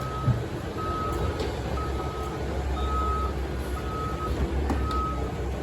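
Heavy-equipment reversing alarm beeping steadily, about once a second, over the low rumble of diesel engines, with a single thump just after the start.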